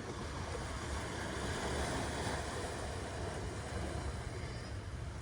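Ocean waves washing onto a shore: a steady hiss that swells about two seconds in, over a continuous low rumble.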